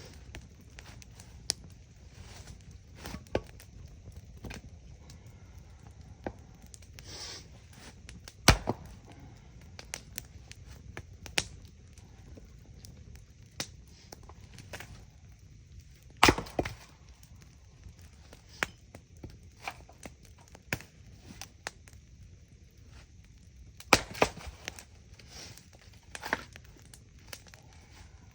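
Campfire crackling, with irregular small pops and snaps over a low steady rumble. Three much louder sharp strikes come about eight seconds apart: wood being chopped.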